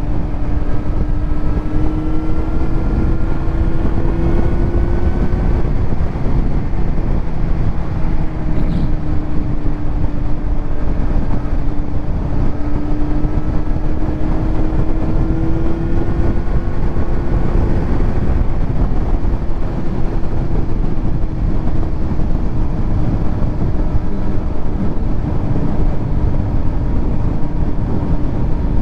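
Kawasaki Z900's inline-four with a titanium Arrow exhaust running at a steady cruise, its engine note holding nearly level with slight rises and falls, over a constant rush of wind and road noise.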